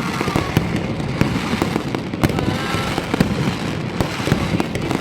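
Fireworks display: a continuous run of aerial shells and firecrackers banging and crackling, with many sharp bangs over a dense rumble and a few faint whistles of rising shells.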